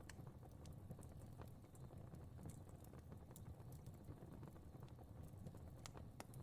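Fire crackling quietly: a soft, steady low rumble of flames with scattered, irregular pops and snaps, one sharper pop near the end.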